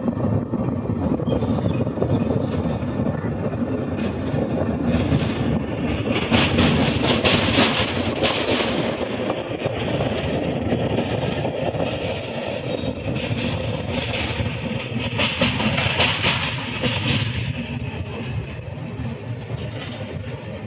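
Train running across a steel truss rail bridge: a steady rumble and rattle of wheels on the track and the bridge girders, swelling into louder clatter twice.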